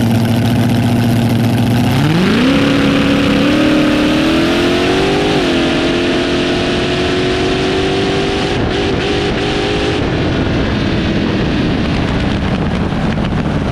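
Front-engine dragster's engine idling at the starting line, then revving up hard on the launch about two seconds in and pulling down the track with its pitch climbing. It dips briefly where the driver eases off, then holds high until it fades about ten seconds in.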